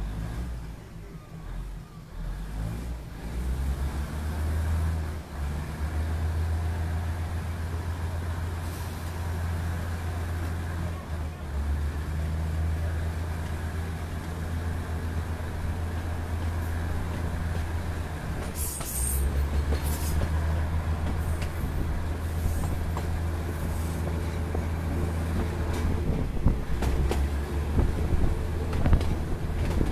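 Diesel railcar running along the track, heard from an open window: a steady low drone of the engine and wheels that builds over the first few seconds, with rail-joint clicks growing more frequent and louder near the end.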